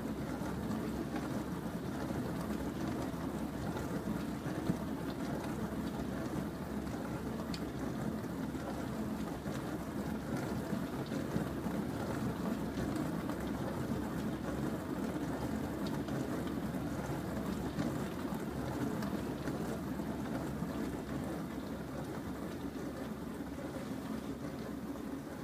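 Bosch SMS50M08GN dishwasher running a wash cycle: a steady sound of water spraying and splashing inside the tub.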